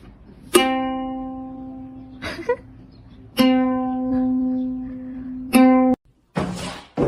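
A plucked string instrument sounding the same note three times, each note struck sharply and left ringing as it fades. The third note is cut off abruptly, and two short rustling noises follow near the end.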